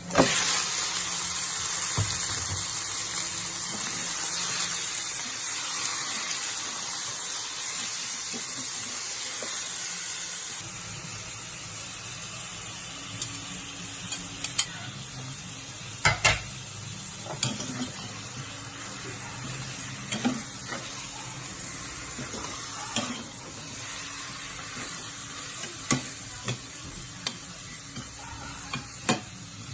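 Food sizzling in hot oil in a pan, starting loudly all at once and gradually easing off over the first ten seconds or so. Through the second half, a cooking utensil knocks and scrapes against the pan every second or two as the food is stirred.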